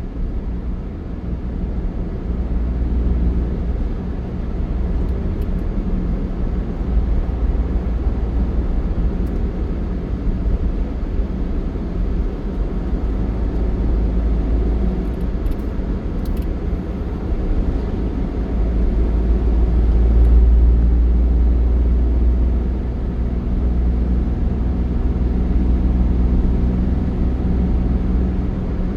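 Steady low rumble of a moving vehicle with road noise, swelling a little about twenty seconds in.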